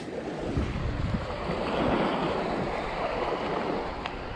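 Surf washing in the shallows, a steady rush of water mixed with wind on the microphone, swelling slightly about two seconds in.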